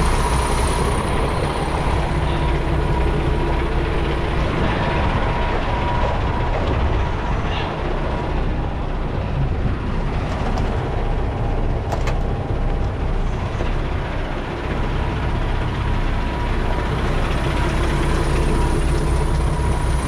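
A 2018 Freightliner semi truck's diesel engine idling steadily, with a thin steady whine over it. A single sharp click comes about halfway through.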